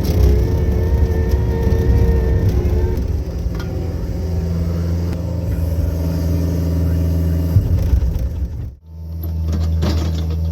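John Deere 50G mini excavator's diesel engine running steadily under work, with a hydraulic whine over it for the first few seconds. The sound drops out sharply near the end, then the engine runs on.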